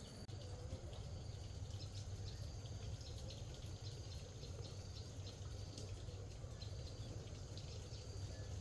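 Faint outdoor ambience: a steady low hum under many short, high chirps scattered throughout.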